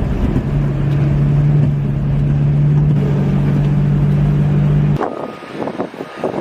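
A steady, loud engine drone with wind noise on the microphone, which cuts off abruptly about five seconds in, giving way to a quieter, uneven stretch of scattered short sounds.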